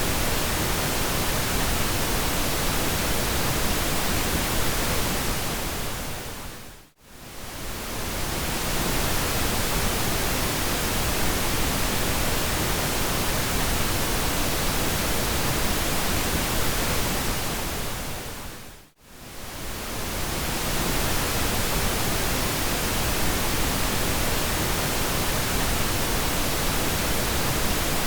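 Steady pink noise, an even full-range hiss weighted toward the low end. Twice, about 7 and 19 seconds in, it fades down to near silence for an instant and swells back over a second or two.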